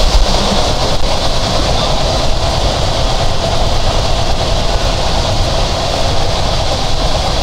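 Intercity passenger train running at speed, heard from on board: the steady noise of wheels on rails and the moving carriage.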